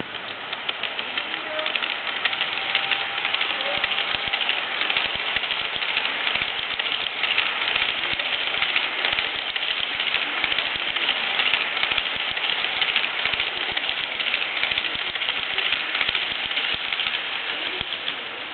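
HO-gauge model E231-series Yamanote Line train running over the track, its wheels clicking and rattling over rail joints and through the turnouts. The rattle swells about two seconds in and eases slightly near the end.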